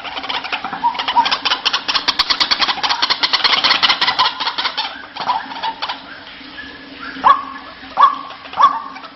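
White-breasted waterhen (ruak-ruak) calling, as used for a lure call. It gives a fast run of harsh, repeated croaking notes for about five seconds, then from about seven seconds in switches to separate sharp 'kwak' notes roughly twice a second.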